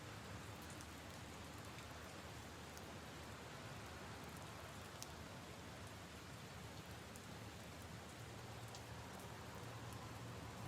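Steady, faint rain falling on puddles and leaves, with a few louder single drops ticking now and then.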